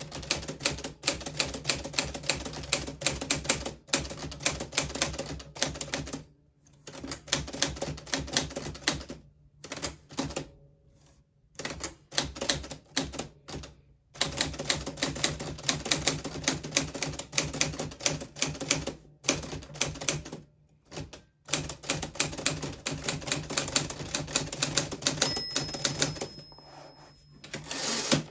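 Keystrokes of a 1940s Smith Corona Silent manual typewriter, typed in quick runs with several short pauses. Near the end a thin bell-like ring sounds, followed by a louder sliding rush: the margin bell and the carriage return at the end of a line.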